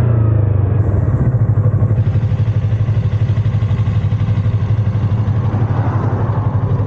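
Yamaha R25's 249 cc parallel-twin engine running steadily at low revs, an even low pulsing beat with no rise or fall in pitch.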